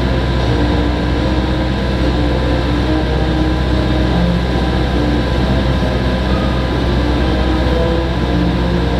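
Steady, loud drone of a four-engine turboprop aircraft, the CC-130J Hercules, with a few faint held notes of music underneath.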